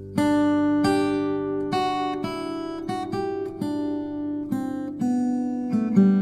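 Acoustic guitar music: plucked notes and chords following one another about every half second, each left ringing.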